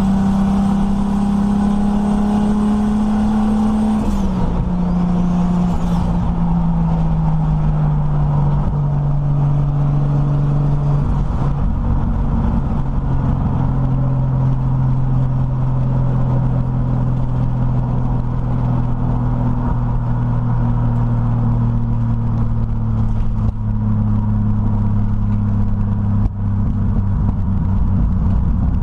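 Turbocharged Toyota 1JZ inline-six of a 1936 Morris 8, heard from inside the cabin while driving on the highway. The engine note falls about four seconds in, steps lower over the next several seconds, then holds a steady lower drone while cruising.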